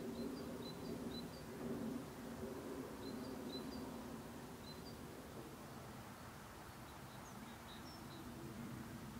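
Faint, high-pitched chirps of small birds in short clusters, a few a second at times. A low steady hum of background noise runs underneath.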